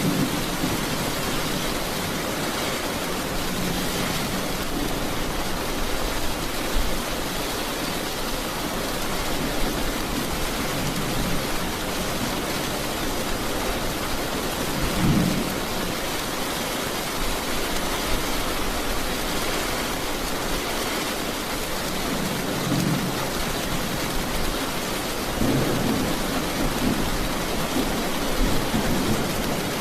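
Steady rain falling, an even hiss throughout, with low rumbles of thunder swelling in a few times, about halfway through and again near the end.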